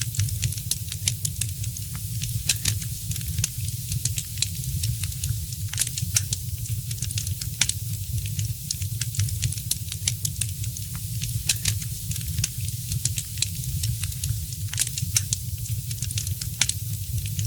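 Wood fire crackling, with many irregular sharp pops and snaps, several a second, over a steady low rumble.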